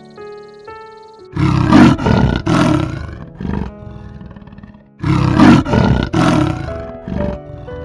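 Lion roaring: three loud roars about a second apart, a pause, then three more. Background music with steady sustained notes plays underneath.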